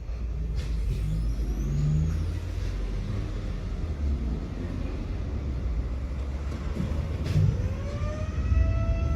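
Electric tram running with a steady low rumble; about seven seconds in, the traction motors start a rising whine as it accelerates away.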